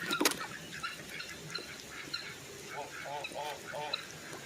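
Domestic waterfowl calling: four short honking calls in quick succession about three seconds in, with faint high chirps throughout over a steady hiss of rain.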